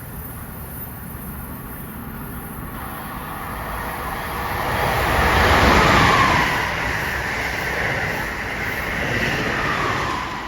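A train passing at speed. The noise builds to its loudest about six seconds in, and a whine falls in pitch as it goes by, once more near the end, before fading.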